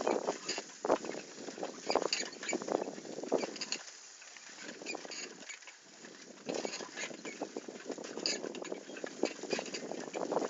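Bicycle rolling over a rough forest track: tyres crunching over the ground with irregular clicks and rattles, easing off for a couple of seconds midway.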